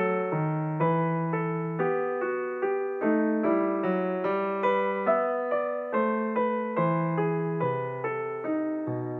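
Background piano music: an unhurried tune of struck notes, about two a second, each fading before the next.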